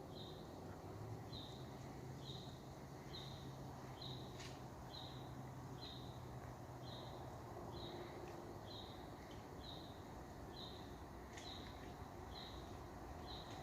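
Faint outdoor ambience with a short high chirp repeating steadily, about one and a half times a second, over a low hum that fades out after about eight seconds.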